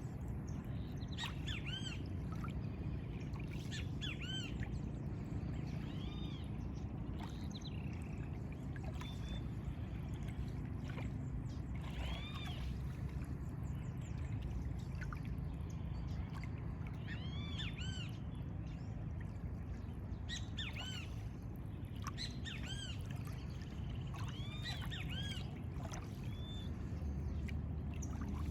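Birds calling again and again in short, arched notes, several in quick clusters, over a steady low rumble of wind and lagoon water.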